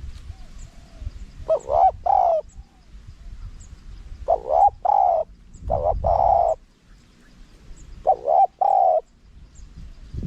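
Spotted dove cooing: four phrases of clipped coo notes, each ending on a longer held coo, a second or two apart.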